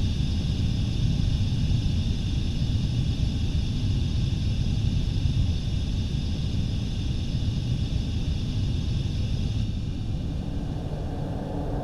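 A deep, steady rumble with a band of high, steady tones above it. The high tones stop near the end while the rumble carries on.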